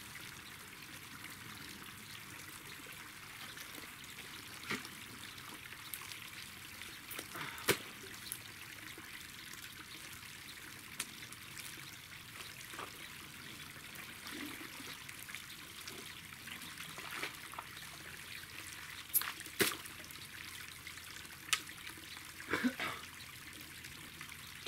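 Water trickling steadily through a leak in a clay dam, with a few short, sharp knocks scattered through it.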